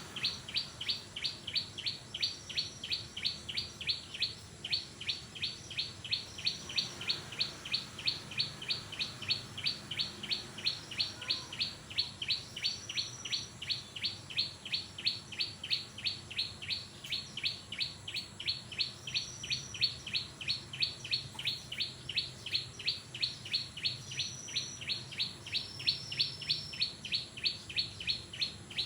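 A small songbird, the one called brinjak in Indonesian, calling without a break: a fast, very even run of short high chirps, about three a second, with an occasional higher, thinner note on top.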